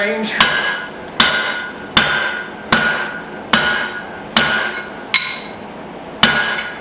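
Blacksmith's hammer striking hot spring steel in an even rhythm, about eight blows a little under a second apart, each with a ringing after it. This is the steel being tapered, drawing out the hatchet end.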